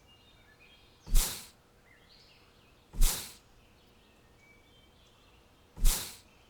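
Three short, loud whooshing hisses, each starting suddenly and fading within half a second, about two seconds apart. Between them are faint bird chirps.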